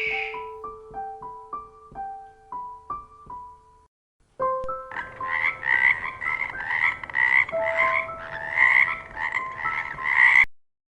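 Soft piano notes. From about four and a half seconds in, an animal call repeats rapidly, two to three times a second, over the piano, then stops abruptly.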